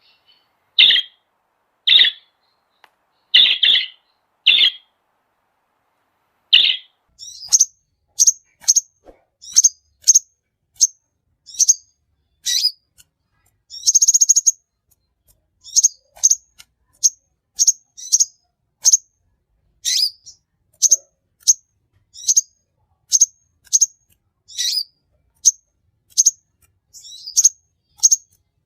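Birds chirping. There are a few loud, short calls in the first seven seconds, then a quick series of high, short chirps, about one or two a second, with a brief buzzy trill in the middle.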